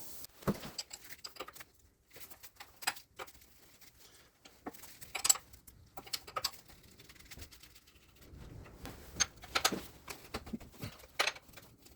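Hand tools working the last sump bolts on a Gardner 2LW diesel engine: scattered, irregular clicks and knocks of a spanner on the bolts as they are undone.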